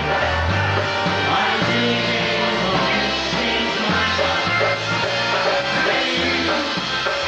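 Polka band playing live: a full band with a bass line that steps from note to note about every half second under the melody instruments.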